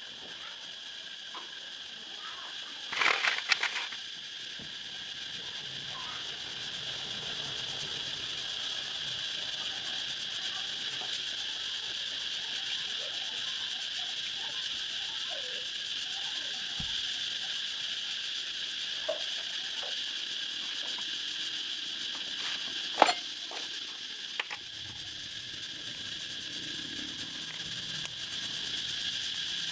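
Steady high-pitched insect chorus, with a brief rattling clatter about three seconds in and a single sharp click near the end.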